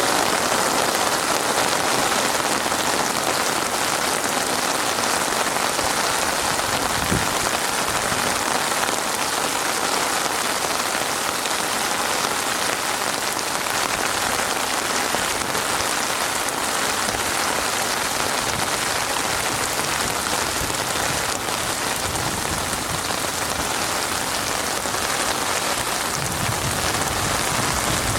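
Heavy rain falling steadily, an even hiss and patter of drops on surfaces.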